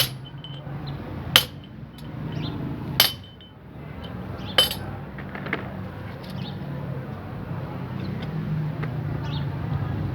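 Hammer striking the steel parts of a truck rear differential being assembled: four sharp ringing blows about a second and a half apart in the first five seconds, over a steady low hum.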